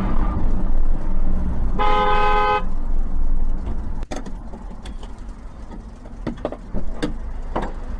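A car horn honks once, briefly, about two seconds in, over the steady low rumble of a car on the road. About four seconds in the rumble drops away abruptly, leaving quieter traffic noise with a few clicks.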